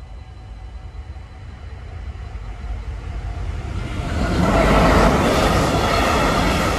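Container freight train approaching and running over a level crossing, its rumble building steadily and then getting much louder about four seconds in as the locomotive reaches the crossing, followed by the noise of the container wagons rolling over the rails.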